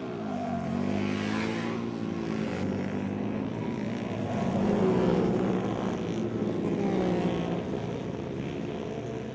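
Flat-track racing motorcycles running in a pack, their engines revving up and down as they pass, loudest about five and seven seconds in.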